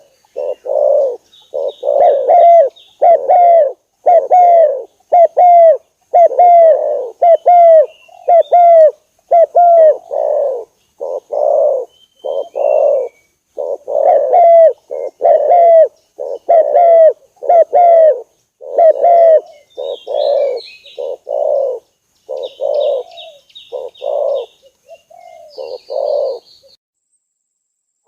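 Spotted doves cooing, a dense run of short coo notes about one to two a second that stops shortly before the end. Faint high chirps of small birds sound above the coos.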